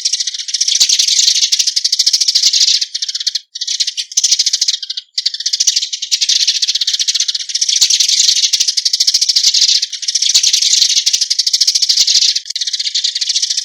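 Eurasian tree sparrows giving their flock call: a loud, dense chatter of rapid, high chirps, broken briefly twice, at about three and a half and five seconds in.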